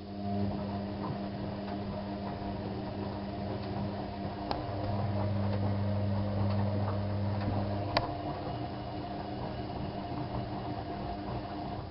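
Bauknecht WAK7751 washing machine turning its drum through one wash-phase rotation: the motor hum starts, runs for about twelve seconds and stops, with a couple of sharp clicks partway through. The drum bearing is wearing out, which the owner says is slowly failing.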